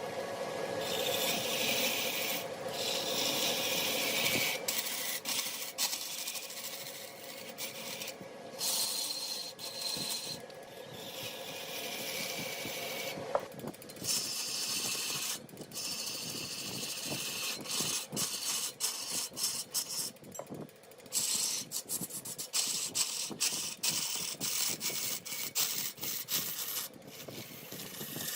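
Wood turning on a large lathe: a tool scraping against the spinning wood in stretches, broken by short pauses, with many short ticks in the second half.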